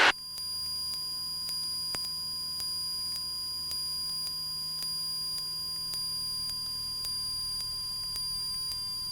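Cessna 172 stall warning horn sounding one steady, unbroken high tone as the nose is held up in a power-on stall, the sign that the wing is at or near its stalling angle of attack.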